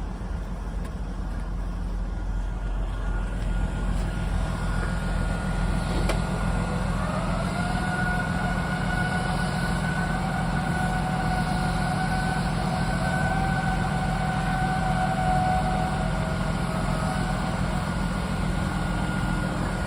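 Heavy truck's diesel engine running steadily at idle. About seven seconds in a high whine rises and holds for about ten seconds before fading.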